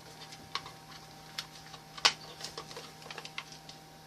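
Irregular plastic clicks and taps as the back case of a handheld digital multimeter is pressed and worked onto the meter, one sharper snap about halfway through; the back is not seating because the battery is in the way.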